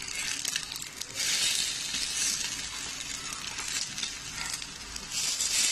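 Egg-dipped bread squares sizzling in hot ghee in a frying pan while they are turned over with tongs. The sizzle swells about a second in and again near the end, with a few light clicks of the tongs.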